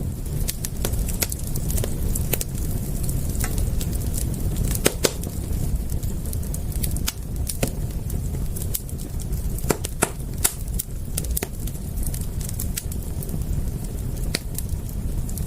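Wood fire crackling, with irregular sharp pops and snaps, a few louder ones about five and ten seconds in, over a steady low rumble.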